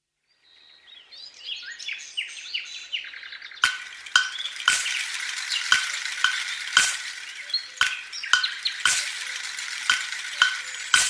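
Birds chirping over a faint hiss, then a steady crackling hiss with a series of sharp clicks, one every half second to second, from about three and a half seconds in.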